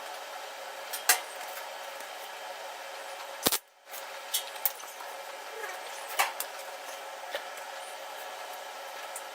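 Scattered metallic clinks and knocks of metal parts and tools being handled, over a steady background hiss, with the two loudest knocks about a second in and about three and a half seconds in.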